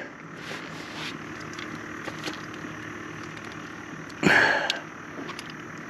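Steady low hum of an engine, with a short, loud sound a little over four seconds in.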